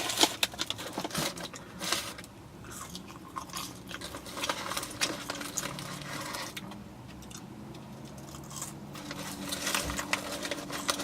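A person chewing and biting food close to the microphone, with scattered small clicks and crunches.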